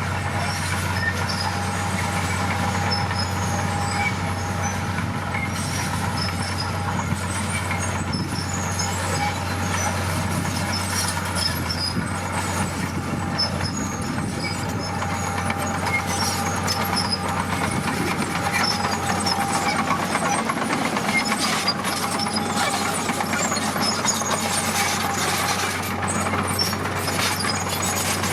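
Heavy diesel construction machinery running steadily: a low engine drone with a steady whine above it and many small clicks and rattles throughout.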